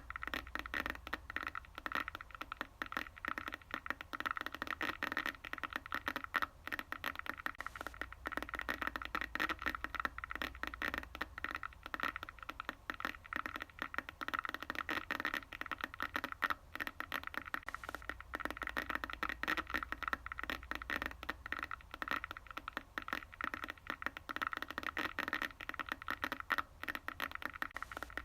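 Sound effect of a broken electronic screen: continuous dense electrical crackling and static buzz over a low hum, swelling and easing in a slow repeating cycle.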